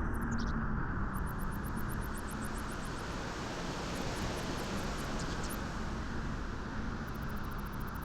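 Steady wind blowing, with a broad, even rush. Faint series of high, quick chirps come and go above it.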